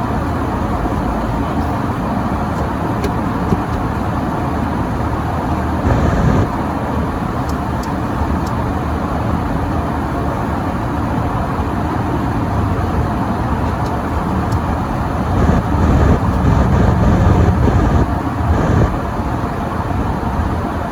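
Car driving on a snowy road: a steady rumble of engine and tyre noise that swells louder for a few seconds about three-quarters of the way through.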